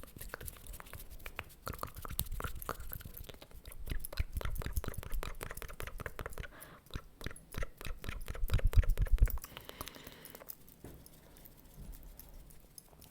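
Close-miked ASMR mouth sounds: rapid, dense wet clicks and smacks. A louder stretch of low rumbling comes about two-thirds of the way in, and the clicking thins out near the end.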